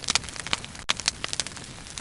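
Bonfire burning, wood crackling and popping in quick irregular snaps over a steady hiss.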